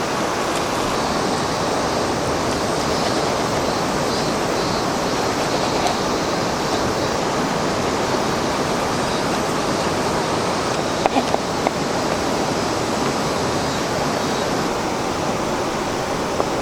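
Steady rush of flowing river water, with a few small clicks about eleven seconds in.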